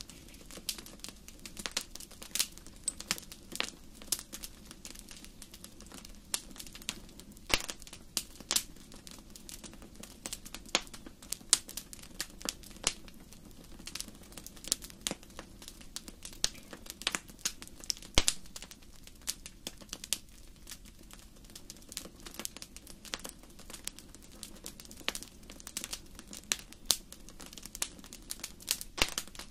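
Fire burning in a fireplace, crackling with irregular sharp pops and snaps of varying loudness, several a second, over a faint steady low rumble of the flames.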